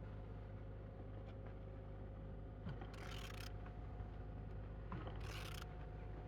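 Removed engine being turned over by hand at the crankshaft, with two short scraping noises about three and five seconds in and a few small clicks, over a steady low hum.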